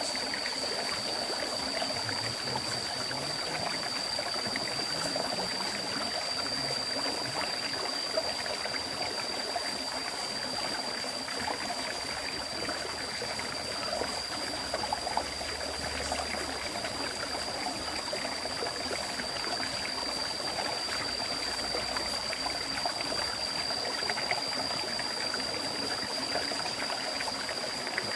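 River stream flowing: a continuous rush of water with fine bubbling and trickling. A steady high-pitched whine is held throughout.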